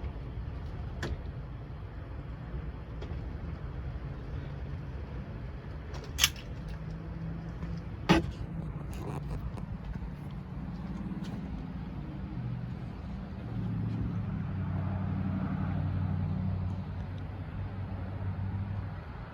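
A motor vehicle's engine running with a steady low hum that grows louder for a few seconds past the middle and then eases off, with two sharp clicks or knocks about 6 and 8 seconds in.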